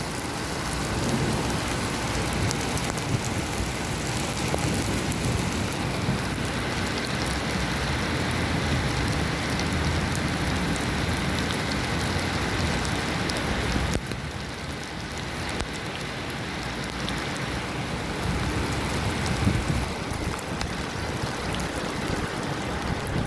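Heavy rain pouring down in a dense, steady hiss, a little quieter from about halfway through.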